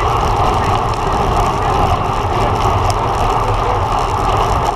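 Steady rush of wind over the microphone mixed with road-bike tyre and road rumble, from riding at race speed.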